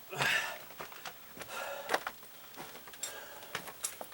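Scraping rustles and irregular sharp clicks from someone moving about and working on bracket bolts in a cramped crawlspace, with two short rasping noises near the start and around the middle.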